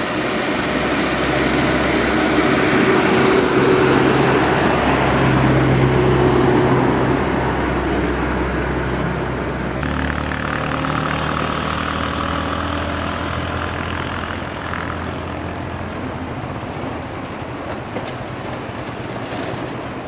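A motor vehicle's engine running steadily under a broad rushing noise, with an abrupt change in the sound about halfway through.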